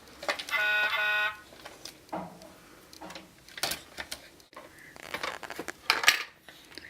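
Toy digger truck's electronic horn sound effect playing once, a steady buzzy tone of under a second that starts and stops abruptly, followed by scattered clicks and knocks of the plastic toy being handled.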